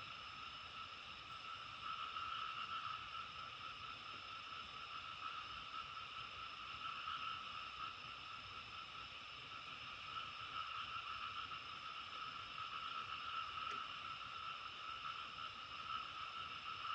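Dense, steady chorus of frogs calling together, a continuous shimmering trill that swells and eases slightly without pause.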